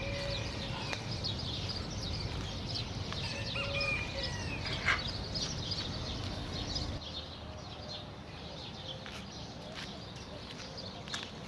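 Many small birds chirping and twittering together, with a few clearer whistled notes, over a low outdoor rumble that drops away about seven seconds in.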